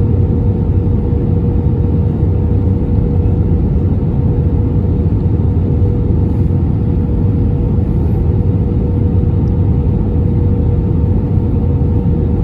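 Airbus A320neo cabin noise from a window seat in flight: a loud, steady rumble of engine and airflow with a constant hum near 500 Hz running through it.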